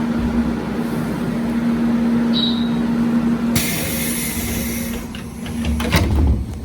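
Electric train at a station: a steady hum, then a loud burst of air hiss about three and a half seconds in, typical of air brakes releasing, followed by a few clicks and a low rumble as a train starts to pull away.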